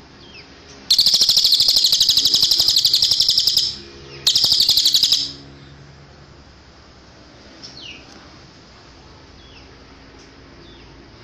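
Cililin song: a loud, very fast high-pitched trill lasting nearly three seconds, then a second, shorter trill half a second later. A few faint descending chirps follow.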